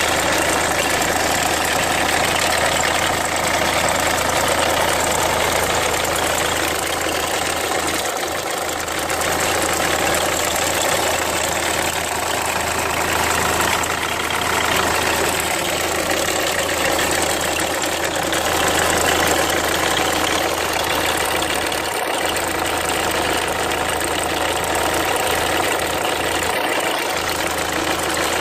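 Renault Mégane II's 1.5 dCi four-cylinder diesel engine idling steadily with a bird-like chirping noise, which the owner thinks means the timing belt needs replacing.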